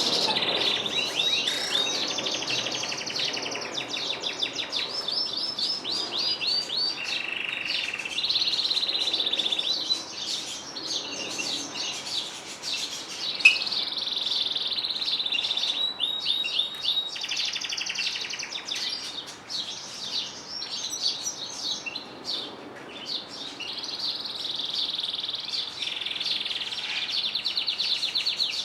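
Canaries and goldfinches singing without a break: fast trills, rapid rolls of repeated notes and quick rising and falling phrases, with one sharp loud chirp about halfway through.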